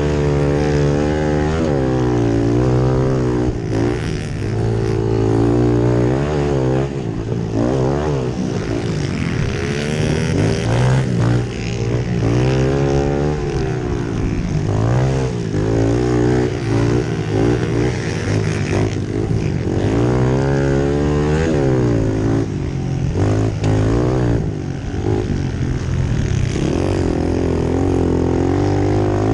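Pit bikes' small single-cylinder engines running hard, the pitch climbing and then dropping again and again as the riders rev, shift and back off, with several bikes overlapping.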